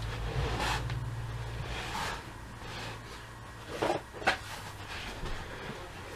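Hard plastic toy parts being handled: a few short clicks and knocks, the loudest pair about four seconds in, over a low hum that drops away after about two seconds.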